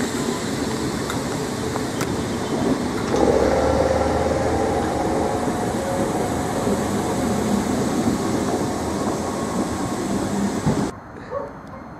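Electric multiple-unit passenger train moving past close by, its wheels rumbling on the rails under a steady motor hum that grows louder about three seconds in. The sound cuts off abruptly near the end.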